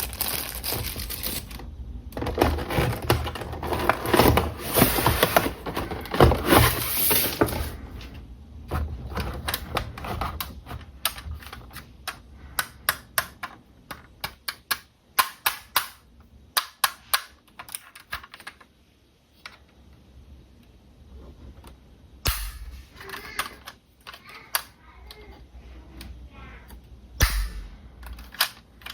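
Plastic packaging crinkling as it is handled, then a long run of sharp plastic clicks and taps, with a couple of louder knocks near the end, from unboxing and handling a small remote-control toy car.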